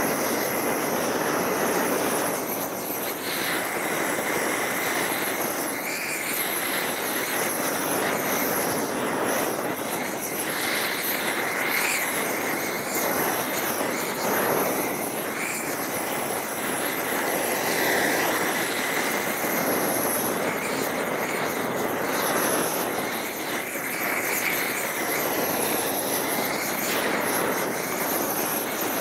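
Homemade propane roofing torch burning steadily, used to heat torch-on bitumen roll roofing so it melts down onto the roof. It makes a constant loud hiss with a faint high whistle running through it.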